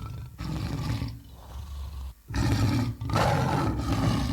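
Tiger roaring: three long, rough roars, the last two the loudest, starting about two seconds in.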